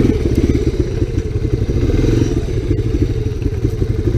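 Honda 250SX three-wheeler's single-cylinder four-stroke engine running in first gear, with a steady low pulsing beat.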